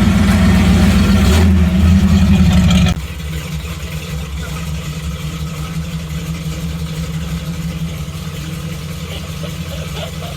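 Loud music cuts off abruptly about three seconds in, leaving a vehicle engine idling steadily.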